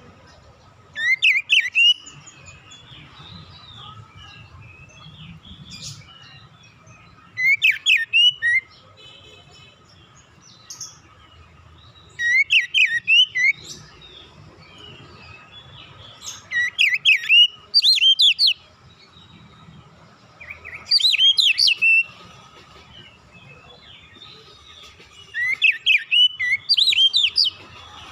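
Oriental magpie-robin (kacer) singing short phrases of quick, sliding whistled notes. There are six phrases, each lasting one to two seconds, with pauses of a few seconds between them.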